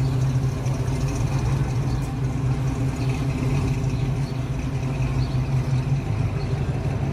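A car engine idling steadily close by, a low, even hum with a slight change in note about six seconds in.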